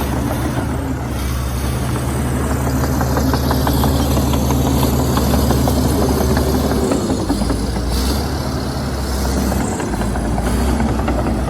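Heavy diesel earthmoving machinery running steadily, with rapid clicking and clatter for the first few seconds and a change in engine note about seven seconds in.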